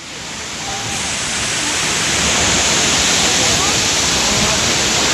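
Waterfall rushing: a steady hiss of falling water that fades in over the first couple of seconds, with faint voices under it.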